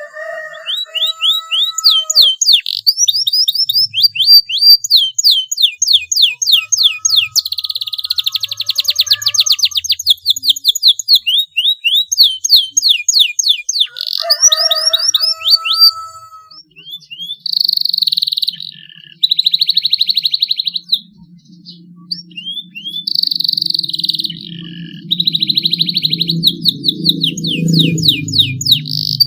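Young canary singing a long run of rapid sweeping notes broken by fast buzzing rolls: a juvenile still learning its song and starting to roll at length. A low rumble comes in about halfway through.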